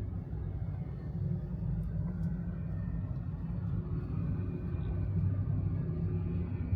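A steady, low engine rumble with a faint steady hum above it.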